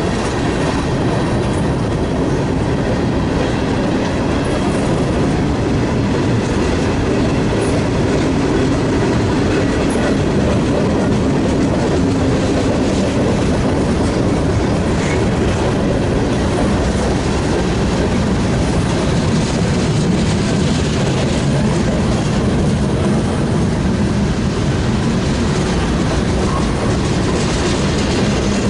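Freight train rolling past, its wheels clacking over the rail joints. The sound is loud and steady for the whole stretch.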